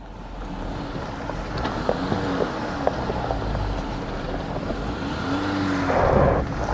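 A motor vehicle's engine running with a steady low rumble and rushing noise, which gets louder in a gust near the end.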